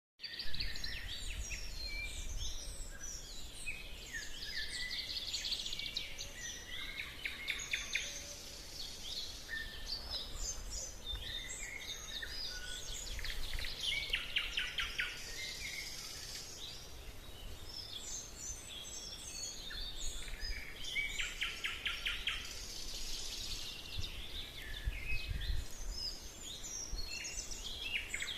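Several songbirds singing together in a spring forest: overlapping chirps, short whistles and rapid trills, with a low rumble underneath.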